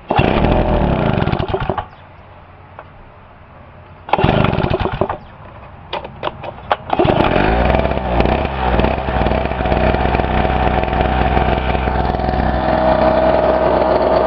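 Pulsar PG1202S 72cc two-stroke generator engine being started: it fires and runs briefly twice and dies, then catches about seven seconds in and settles into a steady run.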